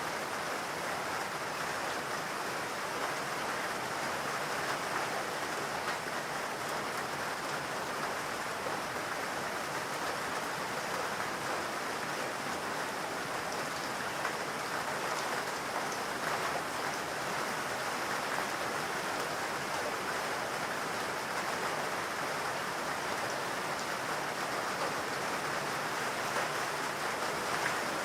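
Steady rain falling in a forest, a dense even patter of drops with no let-up.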